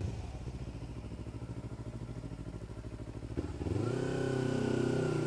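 Kawasaki Ninja 300 parallel-twin engine with an Akrapovič slip-on exhaust, running low and pulsing, then stepping up to a louder, steady engine note about three and a half seconds in.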